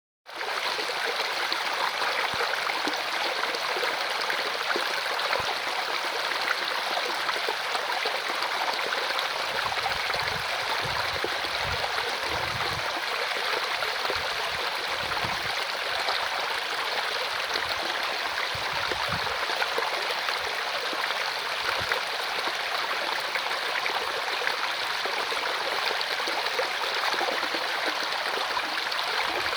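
Mountain stream water running over rocks in a valley, a steady, even rushing and gurgling, with a few faint low rumbles in the middle.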